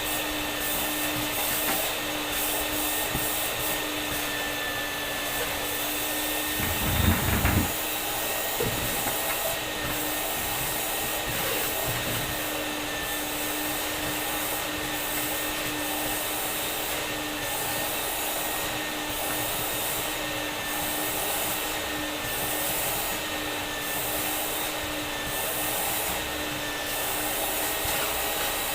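Vacuum cleaner motor running steadily with a constant hum, and a brief knock about seven seconds in.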